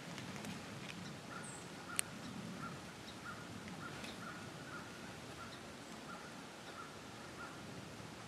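A bird calling a run of short, evenly spaced notes, roughly two to three a second. A single sharp click sounds about two seconds in.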